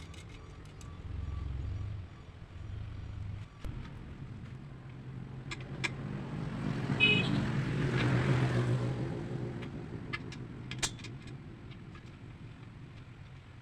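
A motor vehicle passing by: a low engine hum that swells to a peak about eight seconds in, then fades away, with scattered light clicks.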